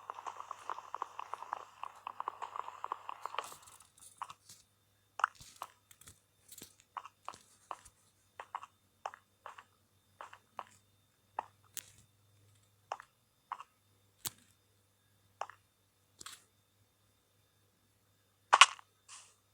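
Close crackling for about three and a half seconds, then a run of single sharp crunches and clicks every half second to a second, the loudest one near the end.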